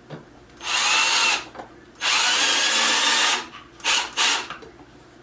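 Cordless drill-driver running in bursts to drive assembly screws: a short run, a longer run of about a second and a half, then two quick blips of the trigger.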